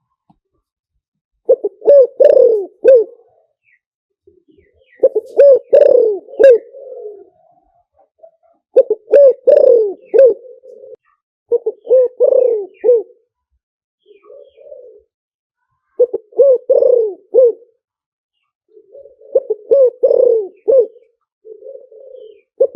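Spotted dove cooing: loud phrases of several low, throaty coos, one phrase every three to four seconds, with a few softer, shorter phrases in between.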